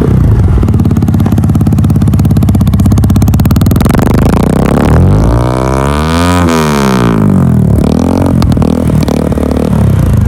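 Lexmoto R9 motorcycle exhaust running with its dB killer removed: a steady idle, then one rev up and back down about halfway through, and a smaller blip of the throttle near the end.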